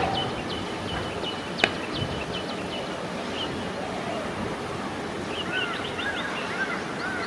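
Birds calling outdoors: a run of quick, repeated chirps for the first couple of seconds, then a series of short, arching calls near the end, over a steady outdoor background hiss. One sharp click comes about a second and a half in.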